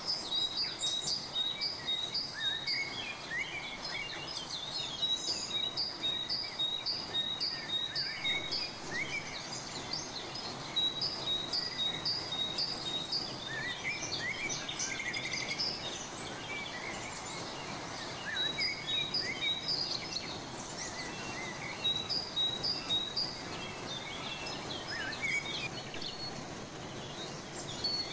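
Several birds singing and chirping, one of them repeating a short high note about three times a second in runs of a few seconds, over a steady background hiss.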